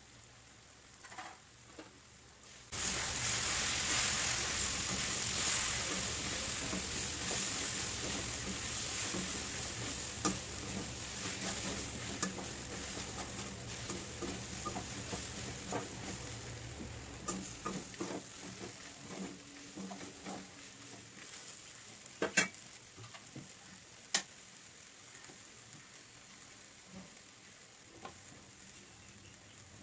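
Shredded roti and vegetables frying in a metal kadai with a spatula stirring through them. A loud sizzle starts suddenly about three seconds in and slowly dies down, with scraping and clicks of the spatula against the pan and two sharp knocks toward the end.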